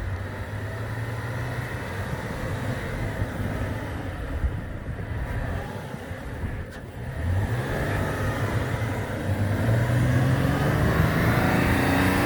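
Vehicle engine running. It eases off and quietens about halfway through, then gets louder and climbs in pitch as it accelerates.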